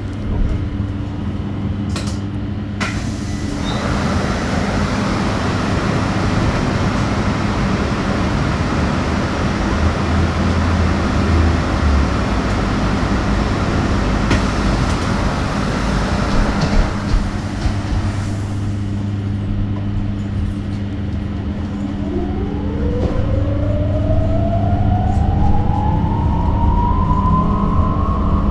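Inside an electric bus: a steady low hum, with a broad rushing noise for much of the first half. About 22 seconds in, the electric traction motor's whine starts and rises steadily in pitch as the bus accelerates.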